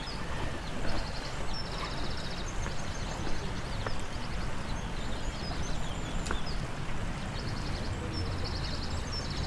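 Small birds chirping, with short trills repeating every second or two, over a steady low rumble of outdoor background noise.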